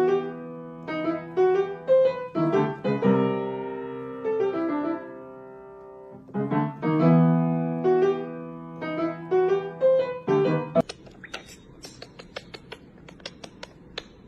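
Piano or keyboard playing a short melody of struck notes that ring and decay. It stops about three-quarters of the way through, and a run of irregular sharp clicks or taps follows.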